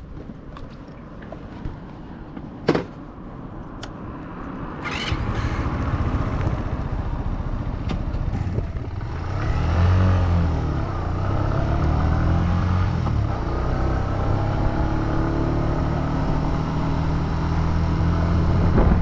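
A few sharp clicks, then the Suzuki GN125's single-cylinder four-stroke engine comes in loud about five seconds in. It revs up and down as the motorcycle pulls away, then runs steadily.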